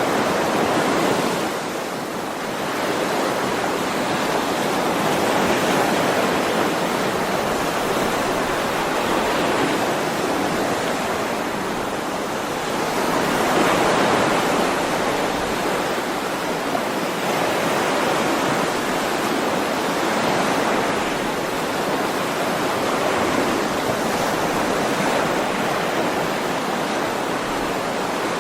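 Ocean waves washing ashore, a steady rushing surf that swells and eases every few seconds.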